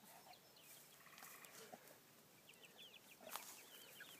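Near silence with faint, scattered calls from the poultry flock of chickens and ducks, and a short high-pitched chirping call near the end.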